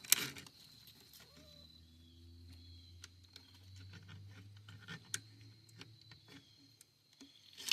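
Scattered light metallic clicks and taps of a tool working at a rusted, grease-caked front hub, with a sharper click right at the start. A faint low hum runs underneath for a few seconds in the middle.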